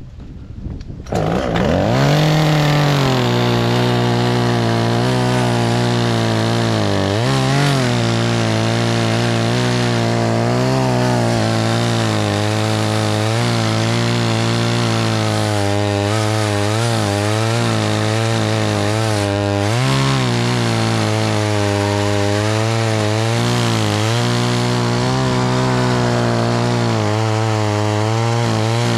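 Two-stroke chainsaw starting up about a second in and revving to high speed, then running at a steady high pitch as it cuts wood. The pitch jumps up briefly twice, about a quarter and two-thirds of the way through.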